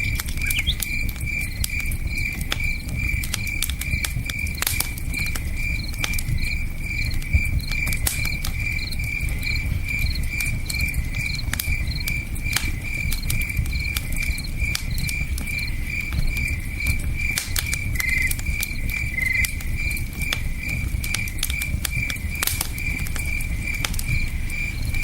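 Campfire crackling with scattered sharp pops over the low, steady rush of a river. A cricket chirps steadily throughout at about three to four chirps a second.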